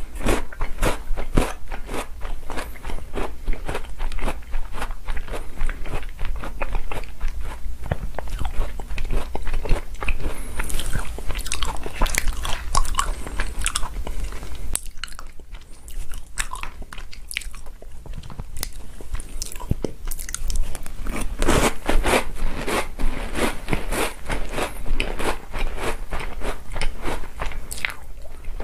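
Close-miked chewing of chocolate cookies soaked in chocolate milk: rapid, crunchy bites and chews, easing off for a few seconds about halfway through before picking up again.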